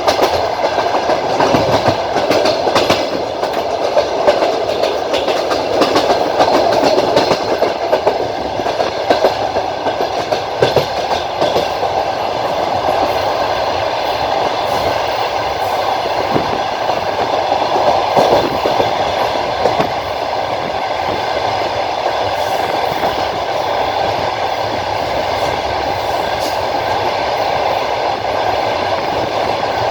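Passenger train coach rolling along, heard from inside the carriage: a steady rumble of the running gear with the wheels clattering over rail joints at irregular moments.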